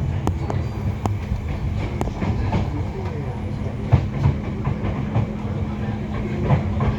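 Train running on the rails: a steady low rumble with a constant hum and scattered sharp clicks.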